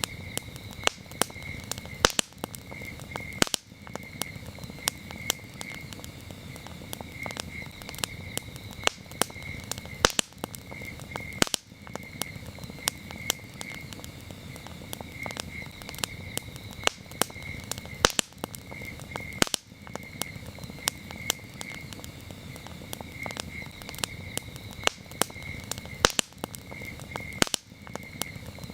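Campfire crackling with frequent sharp pops over a low rumble of burning wood, while crickets chirp steadily in short pulsed trills.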